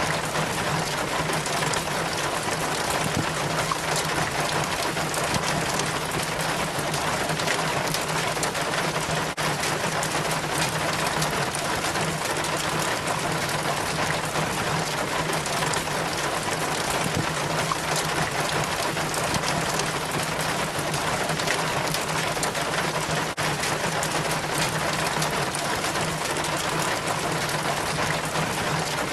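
Rain water from a gutter trickling and splashing down a rain chain in a steady, even stream, with rain falling around it. A steady low hum runs underneath.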